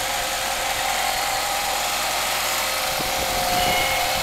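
1989 Chrysler Daytona engine idling steadily shortly after a cold start.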